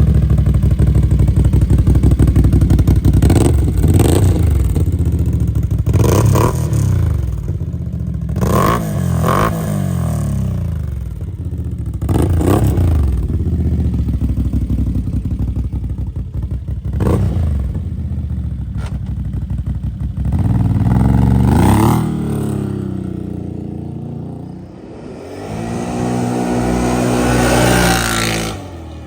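Can-Am Outlander ATV's V-twin engine running through an RPM stainless sport slip-on muffler, revved up and back down about eight times, with a longer climb in revs near the end.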